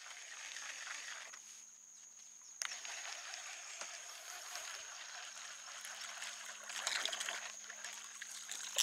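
Faint trickling and small splashes on the marsh water, the sound of speckled trout feeding on shrimp at the surface, with a sharper splash a few seconds in.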